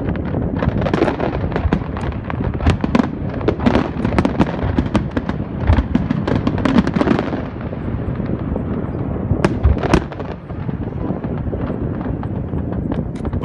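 Aerial fireworks going off in a dense barrage of cracks and bangs over a continuous rumble, thinning out after about seven seconds, with two sharp loud bangs close together about ten seconds in.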